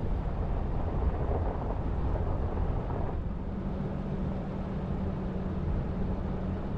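Steady engine hum and road noise from a vehicle driving on a dirt road.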